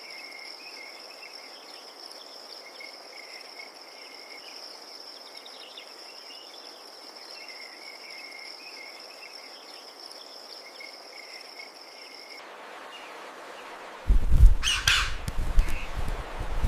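Crickets trilling in one steady high note, with intermittent lower chirping, until the recording cuts off abruptly about twelve seconds in. Near the end a loud low rumble sets in, with a harsh bird call over it.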